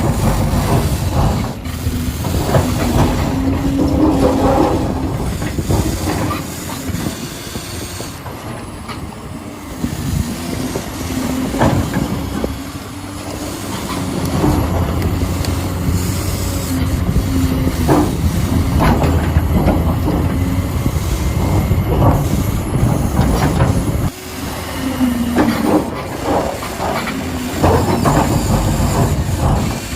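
Huina 1593 radio-controlled construction vehicle's small electric motors whining and its gearing and tracks clattering, driven in repeated spurts, with a sudden drop in loudness about 24 seconds in.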